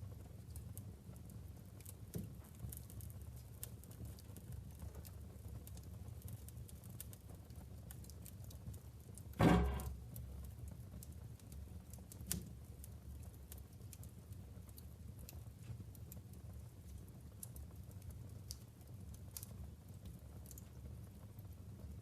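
Logs burning in a wood-burning fireplace: scattered small crackles over a low, steady rumble of the fire, with one loud pop a little before halfway and two smaller pops, one about two seconds in and one about twelve seconds in.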